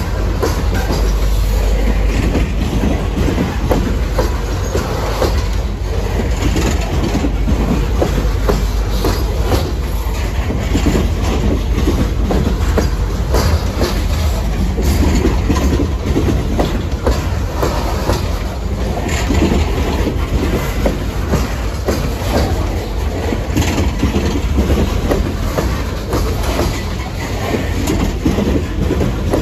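Westbound BNSF freight train's cars rolling steadily past, wheels clicking over the rail joints with a deep rumble.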